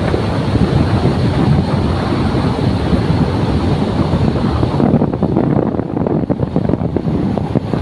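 Loud wind buffeting the microphone over the steady rumble of a moving vehicle. About five seconds in, the high hiss drops away and the noise turns choppier.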